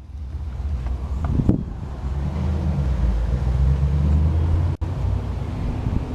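The 2001 Lexus GS300's straight-six engine idling with a steady low hum, with a brief knock about a second and a half in.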